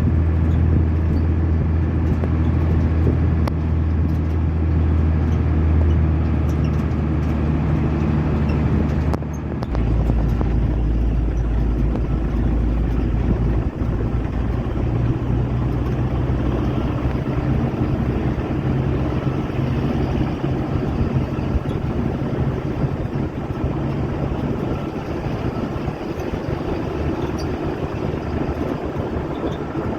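Steady vehicle engine and road rumble, shifting in pitch about nine seconds in.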